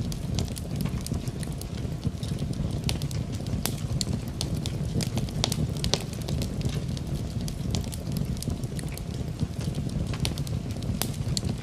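Wood fire crackling in a fireplace, with irregular sharp pops and snaps over a steady low rumble, mixed with steady rain.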